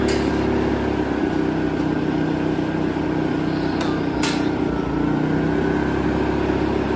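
Inverter generator's small petrol engine running steadily; its note shifts about a second in, and there are a couple of short clicks near the middle.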